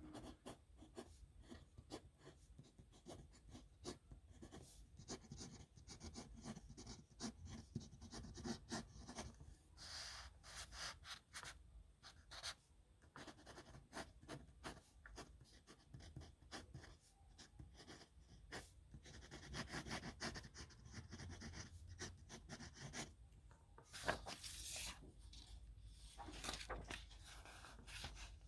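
Pen scratching on paper in quick, short strokes as signatures are written by hand, faint throughout, with one sharper tap late on.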